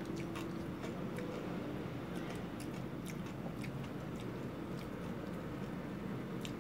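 Close-up chewing of a mouthful of crispy deep-fried pork intestine (chicharon bulaklak), with scattered small crunches and mouth clicks.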